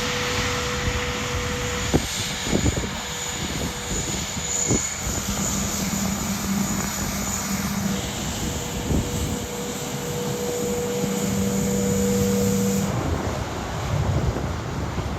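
Jet airliner engines running on the runway, a steady roar with a sustained tone through it, and a few low thumps in the first five seconds; the sound changes about 13 seconds in.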